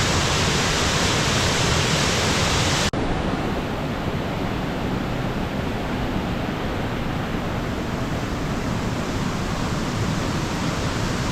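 Steady rush of falling water from a waterfall. It is cut off abruptly about three seconds in and resumes duller, with less hiss.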